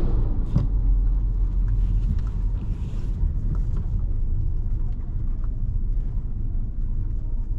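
Steady low rumble of a 2017 Volkswagen Jetta SE's engine and tyres, heard from inside the cabin while driving, with scattered light clicks and a single knock about half a second in.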